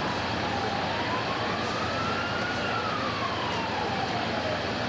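Faint emergency-vehicle siren wailing, its pitch rising slowly for about two seconds and then falling, over steady street and engine noise.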